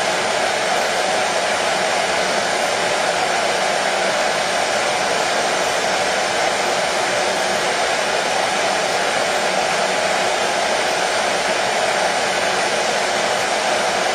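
Hair dryer running continuously at one steady, unchanging level, a constant rushing noise with a strong midrange hum.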